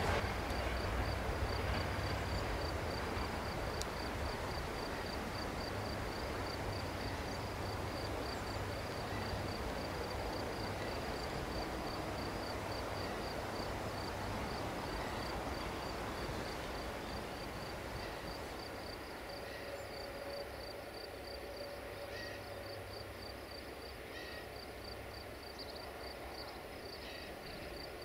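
Low rumble of a passenger train running by, slowly fading away, with an insect chirping in a rapid, even, high-pitched pulse throughout.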